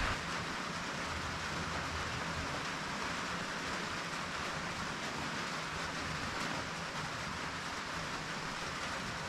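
Steady rain falling on metal roofing, with runoff spilling into the gutter: an even, unbroken hiss.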